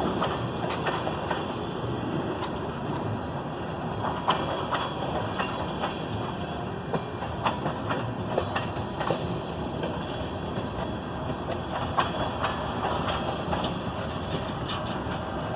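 Cars of a loaded freight train rolling past at a grade crossing: a steady rumble of wheels on rail with irregular sharp clicks and clanks from the wheels and couplings.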